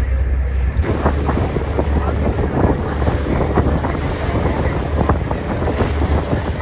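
Wind rumbling on the microphone over water splashing and rushing. The splashing grows louder about a second in.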